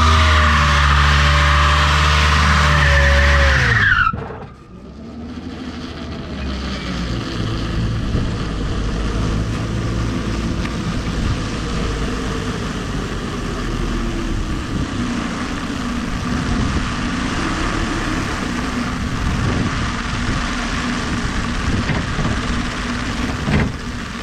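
Electric Legend drag car on a run: a loud, steady motor whine cuts off abruptly about four seconds in, followed by a steady rushing noise of wind and tyres as the car rolls on.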